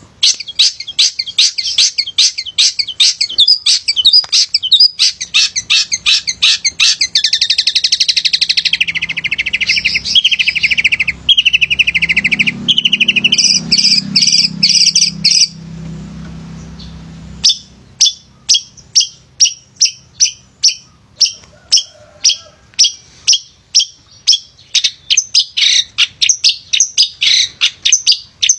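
Male long-tailed shrike singing energetically: a dense, rapid warbling song full of mimicked phrases for about the first half, then a string of short separate notes, two or three a second.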